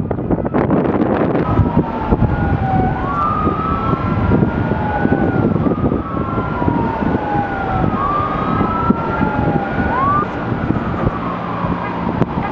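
Emergency vehicle siren wailing in slow rising and falling sweeps, two overlapping tones, starting about a second and a half in, with heavy wind noise on the microphone.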